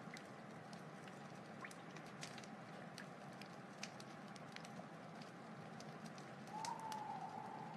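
Wood fire crackling, with scattered sharp pops over a steady low hiss. From about six and a half seconds in, a louder thin whistling hiss joins, like steam escaping from burning wood.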